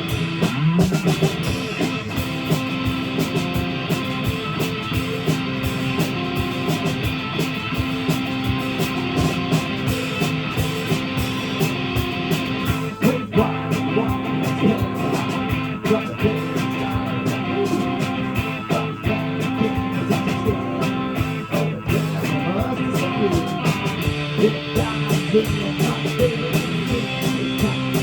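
Live rock music from a band, with guitar to the fore and no clear singing.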